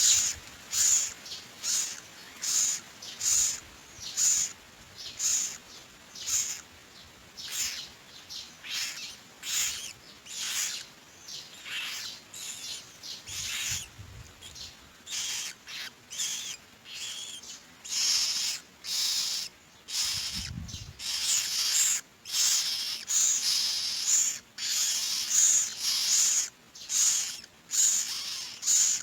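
Common myna nestlings giving short, harsh, rasping begging calls, repeated steadily one to two times a second.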